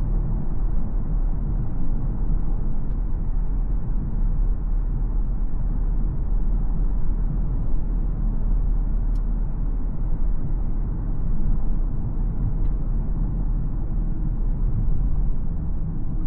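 A BMW X4 xDrive20d, with its 2.0-litre four-cylinder diesel, driving at a steady pace: a steady low rumble of engine and road noise, with a few faint ticks.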